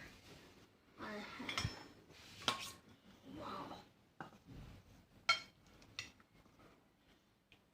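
Eating utensils clinking and scraping against bowls and plates in a few separate knocks, with softer handling noise between them.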